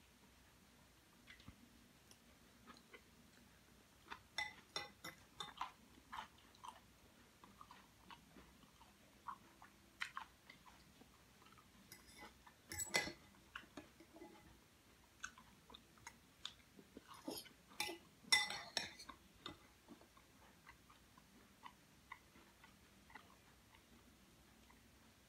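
A person chewing a mouthful of crisp salad: irregular clusters of crunchy bites, loudest about 13 and 18 seconds in.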